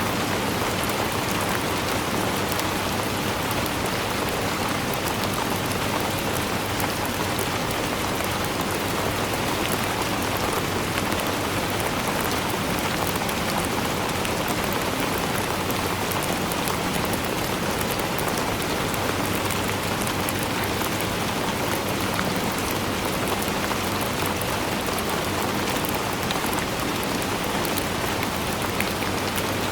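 Steady rain falling and pattering on a surface, a dense even hiss of many drops with no let-up.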